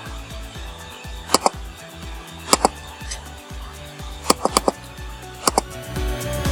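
Background music with loud, sharp clicks cutting through it, in pairs, a quick triple and a single, about once every second or two.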